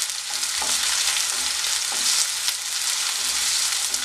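Shallots sizzling in hot oil in a nonstick pan with curry leaves, dried red chillies and mustard seeds. They are being stirred with a wooden spatula, with a few soft scrapes against the pan.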